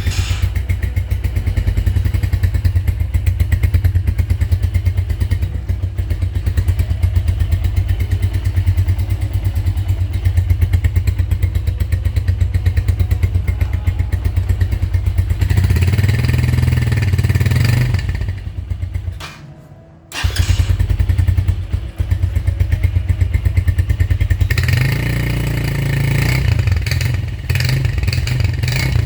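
Chopper Road motorcycle engine running through a Torbal conical aftermarket exhaust, idling with an even, pulsing throb. It is revved twice, once about halfway through and again near the end. After the first rev the sound sags almost to nothing for about a second, then comes straight back.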